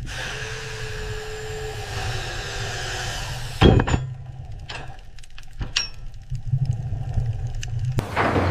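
Low, steady machinery rumble with a hiss and a slowly falling whine in the first few seconds. One loud metallic clank comes a little over three and a half seconds in, followed by scattered lighter clicks and knocks.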